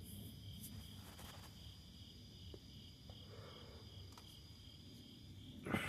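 Faint crickets chirping steadily in a high, evenly pulsing trill, with a few small clicks. A louder noise comes in right at the end.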